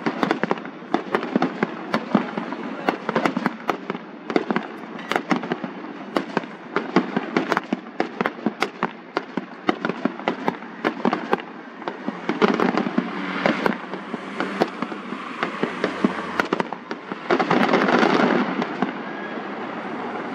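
Aerial fireworks going off in rapid succession: many sharp bangs and pops, with louder, denser stretches of crackling about twelve seconds in and again near eighteen seconds.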